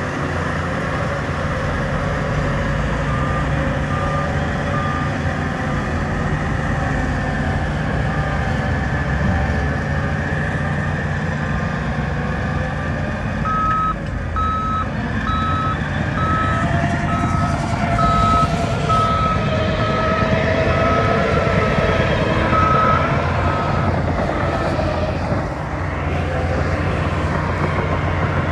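Heavy diesel earthmoving machinery running steadily under load, with a reversing alarm beeping at an even pace: a few beeps a few seconds in, then a longer run of beeps for about ten seconds from the middle.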